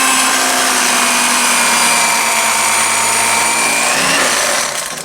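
Electric carving knife running steadily as it slices through a smoked brisket, its motor winding down about four seconds in.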